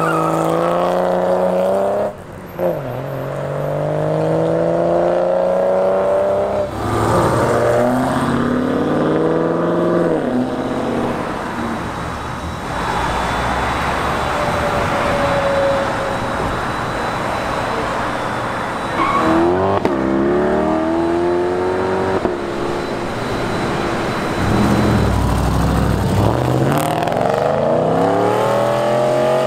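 Several cars accelerating hard one after another, engine pitch climbing and then dropping at each upshift before it climbs again.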